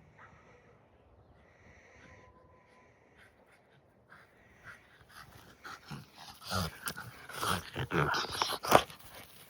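A dog at play during fetch: a few faint squeaks at first, then in the last three seconds a louder burst of dog noises mixed with sharp knocks, loudest near the end.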